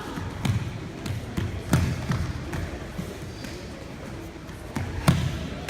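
Scattered thuds and slaps from a karate bunkai kumite pair: blocks, strikes and feet stamping on the floor. About five sharp impacts, with a quick double near the end.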